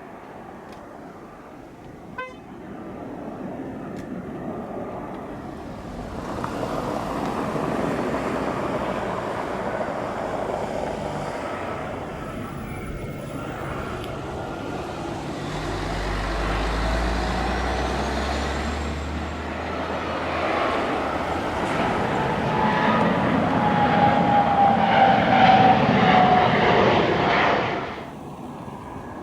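Jet engines of an Airbus A320 airliner passing on landing. The noise builds over about twenty seconds to a peak, with a whine sliding slowly down in pitch as it goes by, then breaks off abruptly near the end.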